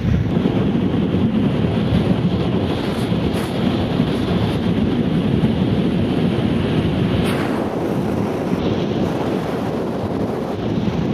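Strong wind buffeting the camera microphone as a steady, heavy rumble, with one short knock about seven seconds in.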